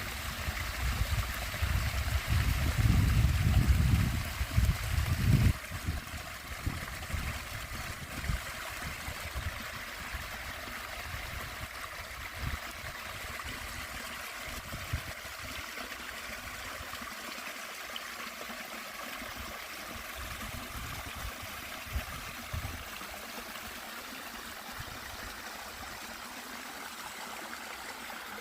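Small stream flowing with a steady rushing, trickling sound. A low rumble, louder than the water, runs through the first five seconds or so and then dies away.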